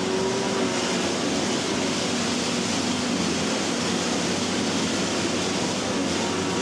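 Silage-harvest machinery running steadily: diesel tractor and harvester engines, their hum clearest in the first second and again near the end, under an even rushing noise.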